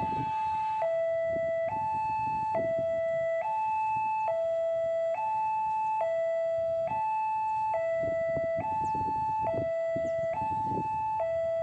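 Electronic two-tone warning alarm of an Indonesian railway level crossing, alternating between a lower and a higher tone a little less than once a second, signalling that a train is approaching. Irregular low rumbling runs underneath.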